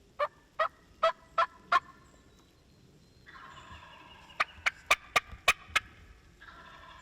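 Wild turkey calling: a run of five sharp yelps, about three a second, then a longer stretch of calling with a quick string of sharp, loud notes over it.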